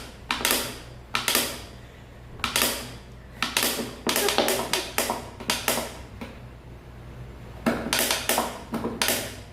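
Small dog chewing a plastic bottle: repeated bursts of crackling and crunching plastic, coming in uneven clusters as it bites down.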